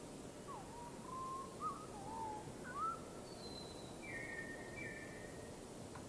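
A bird's clear whistled notes over a faint steady hiss: several low, sliding whistles in the first half, then two higher, steadier whistles near the end.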